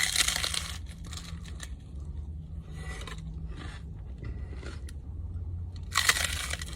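Close-miked eating: a loud crunchy bite at the start and another near the end, with fainter chewing and crunching between, over a steady low hum.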